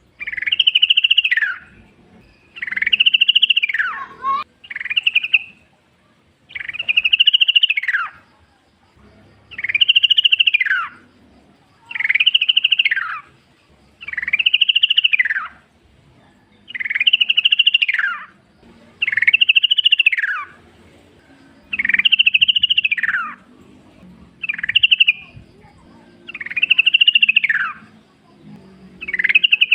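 Yellow-vented bulbul singing in the wild: a run of bubbly song phrases, each about a second long, rising and then falling in pitch, repeated roughly every two seconds.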